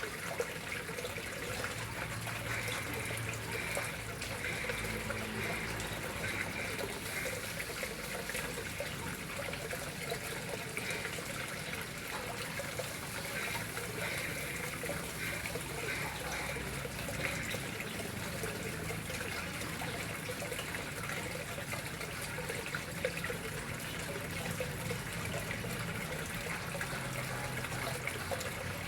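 Water running steadily into a koi pond, a continuous splashing and trickling.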